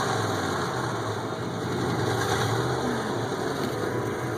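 A car engine idling steadily just after starting, a low even drone.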